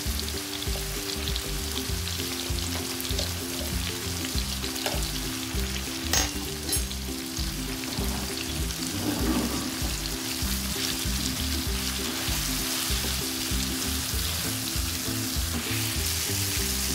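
Spiced masala with potatoes, tomatoes and boiled eggs sizzling in hot oil in a non-stick wok: a steady frying hiss, with a slotted spatula stirring the mix near the end.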